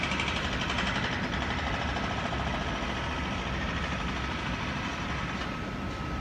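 Electric passenger train moving away from the platform: a steady rumble with a constant high whine, easing slightly as it goes.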